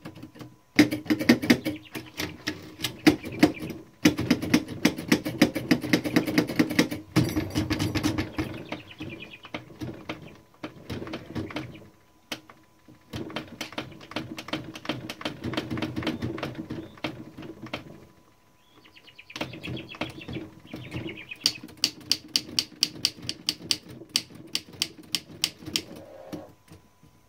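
1912 Mercedes No. 3 typewriter keys pressed in rapid runs, the typebars clacking several times a second with short pauses between runs. The keys are being worked in so that ones that were sticking settle and move freely.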